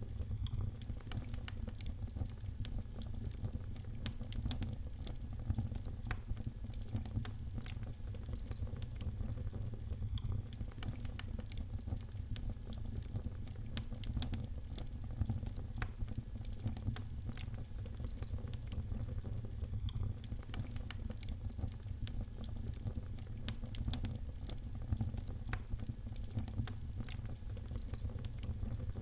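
Wood fire in a fireplace crackling, with many sharp pops and snaps scattered irregularly over a steady low rumble of the flames.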